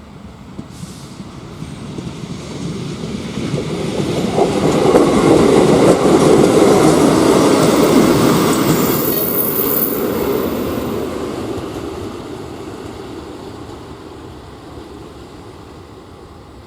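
A regional passenger train passes over the level crossing, growing louder as it approaches, running loudest for several seconds in the middle, then fading away. A thin, high wheel squeal comes in at the loudest part.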